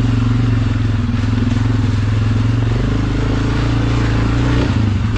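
ATV engine running steadily at low speed, its pitch shifting slightly upward about three seconds in.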